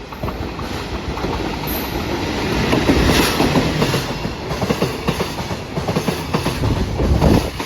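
Train running along the track, its wheels clattering over the rails above a steady rumble, loudest about three seconds in and again near the end.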